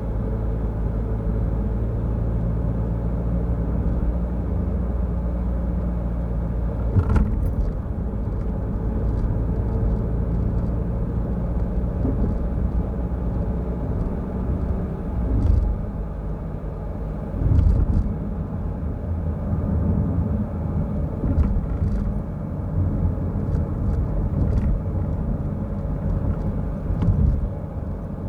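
A car driving, likely a Peugeot Rifter, with a steady low engine and road rumble. Several short, sharp knocks and thumps come through it, the loudest about seven seconds in and again around the middle and near the end.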